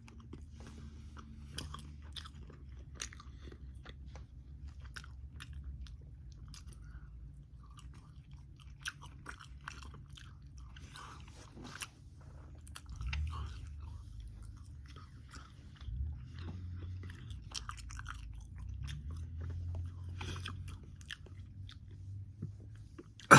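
A person chewing and biting crisp air-fried bacon, with scattered crunches and wet mouth clicks.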